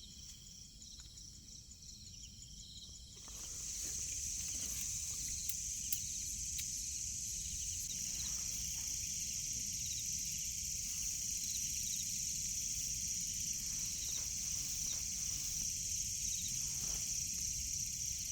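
Insects calling in forest: a faint pulsing chirp, then about three seconds in a loud continuous high-pitched buzzing chorus sets in and holds steady.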